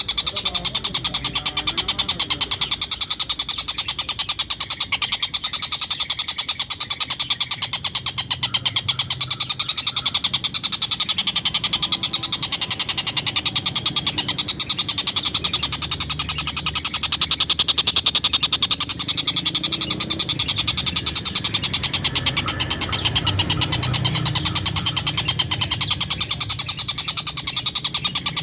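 Tengkek buto kingfisher ngekek: a nonstop, rapid chattering run of harsh 'kek' notes, over a low hum.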